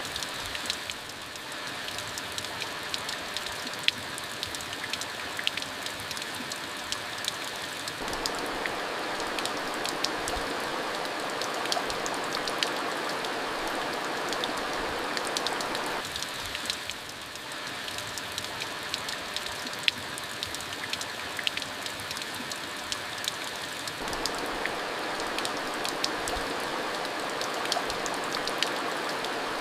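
Steady rain falling, with many individual drops ticking sharply on a hard surface over an even rushing hiss.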